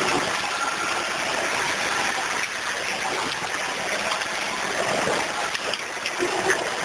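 Off-road vehicle crawling along a rutted, waterlogged dirt track: steady engine and tyre noise mixed with water and mud sloshing.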